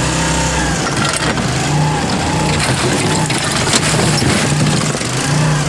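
Oyster dredge boat's engine running, with a low throb that swells and fades a little faster than once a second.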